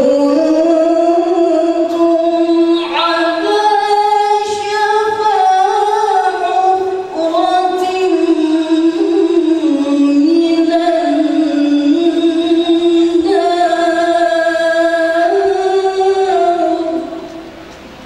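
A woman's voice chanting Qur'an recitation in the melodic tilawah style: one long, ornamented phrase of held notes that step and slide in pitch, breaking off about a second before the end.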